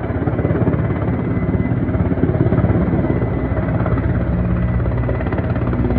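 Helicopter rotor beating rapidly and steadily over a low, even engine hum.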